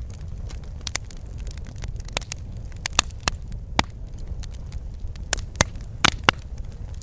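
Wood fire crackling in a fireplace: sharp, irregular pops and snaps over a steady low rumble of burning logs.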